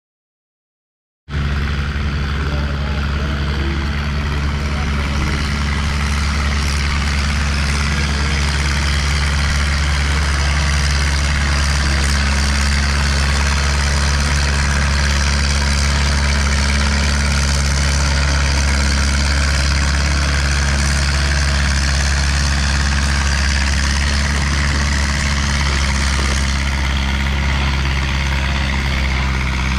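Antique farm tractor engine running at a steady speed, cutting in abruptly about a second in, with a deep, even hum.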